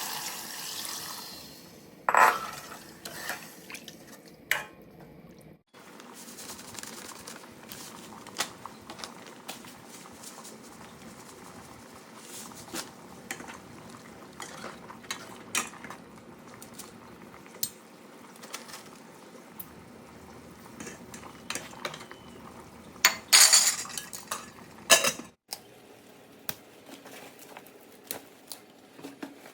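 Cooking pots, pans and metal utensils clinking and clattering with scattered light knocks, a louder clatter about two seconds in and a run of loud clatters near the end.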